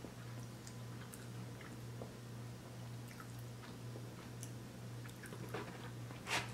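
Close-miked chewing of a soft sausage, egg and cheese biscuit sandwich: small wet mouth clicks and smacks over a steady low hum, with one louder short sound near the end.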